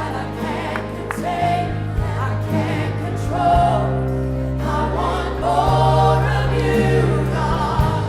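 Live gospel worship music: a congregation or choir singing a slow song over sustained keyboard and bass notes.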